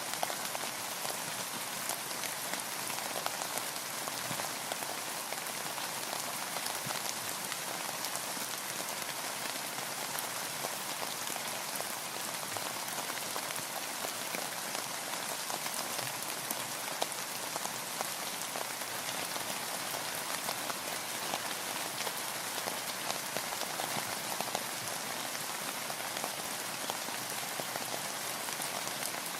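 Steady rain falling, with dense patter of individual drops striking a hard surface close by.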